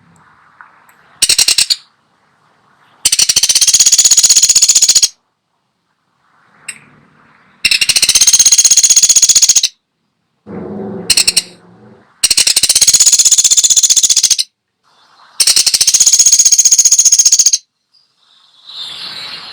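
A woodpecker giving fast, machine-gun-like rattling bursts, each about two seconds long, repeated every few seconds, with two shorter bursts between them.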